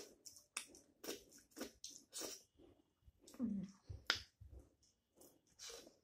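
Close-up chewing of a mouthful of rice and curry eaten by hand: an irregular run of wet mouth smacks and clicks, with a brief low hum about three and a half seconds in.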